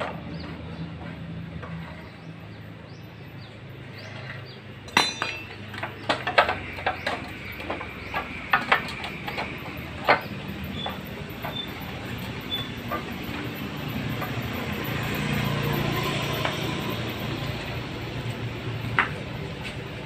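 Metal engine parts and tools clinking and knocking against each other during the dismantling of a water-pump engine with a broken connecting rod: a cluster of sharp clinks about a quarter of the way in, a few short ringing notes just after, and one more knock near the end, over a steady background hum that swells in the middle.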